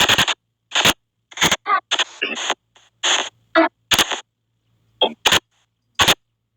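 SP White Noise spirit box app sweeping: short chopped bursts of hiss and clipped voice-like fragments, about two a second with irregular gaps.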